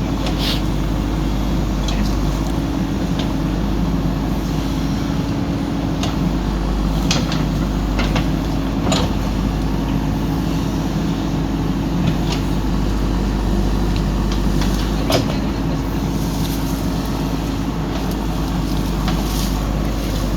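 Backhoe loader's diesel engine running steadily, with sharp knocks every few seconds.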